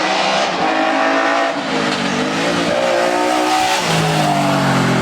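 Hill-climb race car engine accelerating hard, its pitch climbing through the gears and dropping sharply at an upshift about two seconds in and again near the end.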